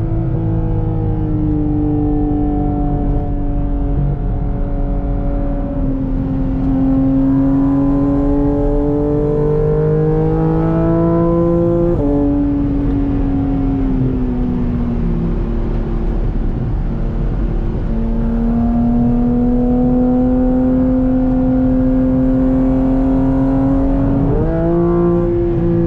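Sports car engine pulling hard on track: its note climbs slowly, drops sharply about halfway through at an upshift, settles and holds, then climbs and drops again at another shift near the end.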